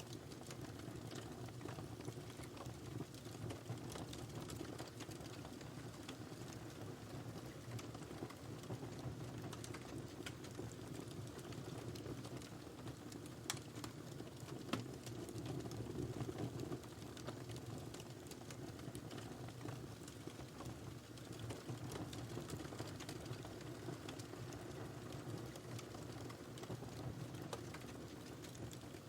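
Wood fire burning in a fireplace: a steady low rush of flames with frequent small crackles and two sharper pops near the middle.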